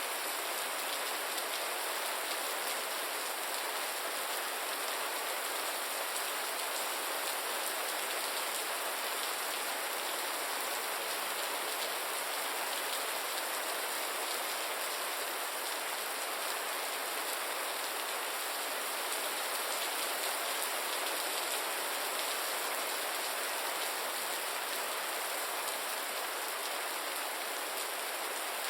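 Steady rain falling, a dense even patter with no distinct drops standing out.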